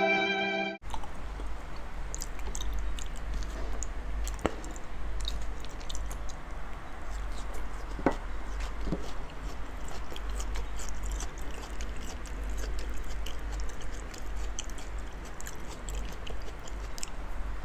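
Close-up chewing of large mouthfuls of raw salmon: a steady run of wet mouth clicks and smacks, with a few sharper clicks now and then, over a steady low hum.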